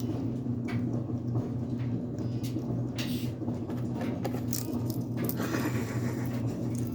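Red eclectus parrot crunching popcorn in her beak: scattered small crisp clicks and crackles, over a steady low hum.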